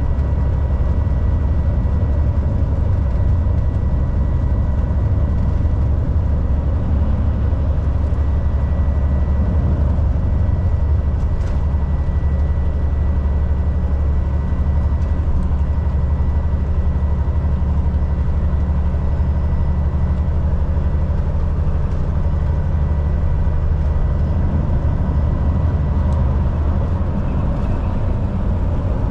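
Volvo VNL 760 semi truck's diesel engine running steadily on the road, a continuous low drone under tyre and road noise, with a thin steady whine above it. The engine note shifts slightly near the end.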